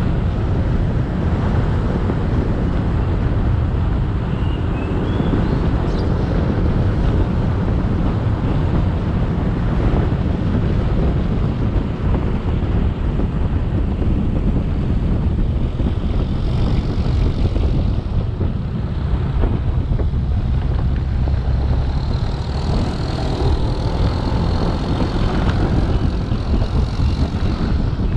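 Motorcycle engine running steadily at riding speed, mixed with wind and road noise on the action camera's microphone. A faint high steady tone joins in during the last few seconds.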